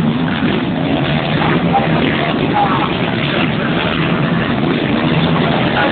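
Several 125 cc two-stroke motocross bikes racing together, their engines running and revving in a loud, unbroken din.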